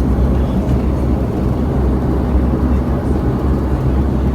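Steady low drone of a Bombardier Q400's Pratt & Whitney PW150A turboprop engines and six-blade propellers, heard from inside the passenger cabin.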